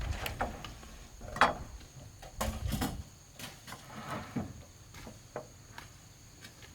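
Irregular wooden knocks and clatter, as of bamboo or timber pieces being handled and set down. The loudest knock comes about a second and a half in, a short cluster follows a second later, and the sounds thin out toward the end over a faint, steady high tone.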